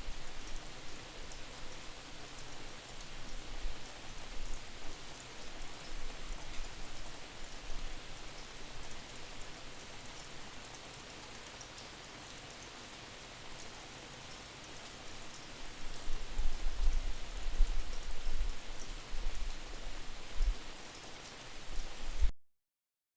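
Steady rain with fine drop ticks, panned from side to side, and gusts of wind buffeting the microphone as distorted low rumbles near the start and again in the second half. The sound cuts out abruptly near the end.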